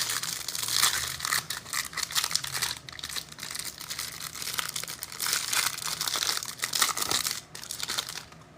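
Plastic wrapper of a trading card pack crinkling and tearing as it is ripped open by hand, a dense crackle that stops abruptly near the end.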